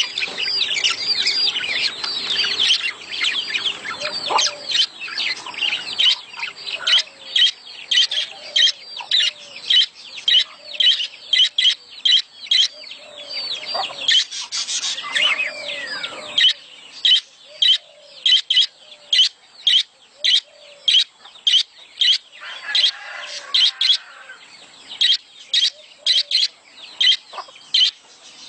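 A flock of budgerigars chattering in their breeding-season courtship calls: dense, overlapping high chirps and warbles at first, then from about halfway a run of sharp, repeated chirps at roughly two a second.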